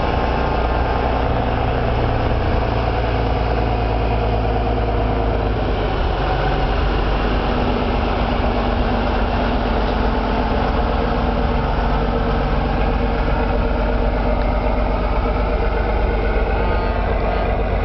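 A heavy truck's engine running steadily with a deep, even rumble.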